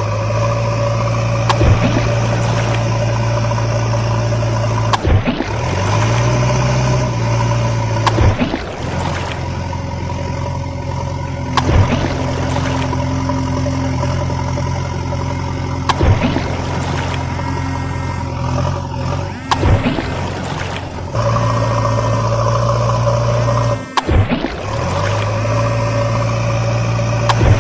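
Steady engine drone from toy construction vehicles, changing abruptly a few times, with sharp clicks every few seconds.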